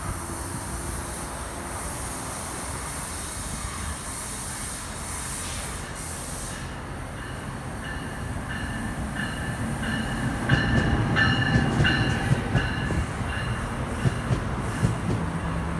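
NJ Transit commuter train moving through the station, with a steady rumble. From about halfway in come repeated high wheel squeals and clattering over rail joints, loudest about two-thirds of the way through.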